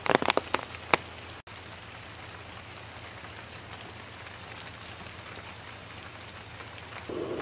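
Heavy rain falling steadily, an even hiss with a few sharp drip taps in the first second. The sound breaks off for an instant about a second and a half in.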